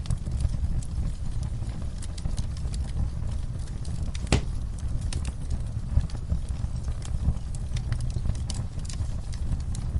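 Wood fire crackling in a fireplace: a steady low rumble of burning with irregular sharp pops and snaps, one louder pop about four seconds in.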